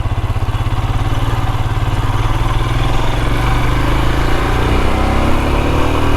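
Triumph Daytona sport bike's engine running under load, with an even pulse; its pitch rises slowly over the last few seconds as the revs build.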